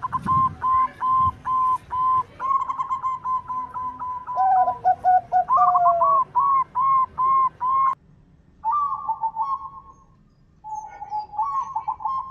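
Zebra dove (perkutut) singing: quick runs of short, clipped cooing notes, with a second, lower-pitched series of notes joining in briefly partway through. The song breaks off twice for a moment in the second half.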